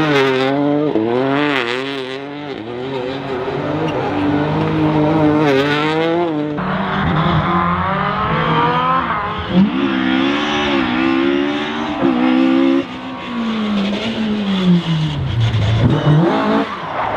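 Rally car engines at full throttle, the engine note rising and dropping with gear changes and lifts off the throttle. The sound changes abruptly about six and a half seconds in, where a second car takes over, and its engine note falls away steadily near the end before climbing again.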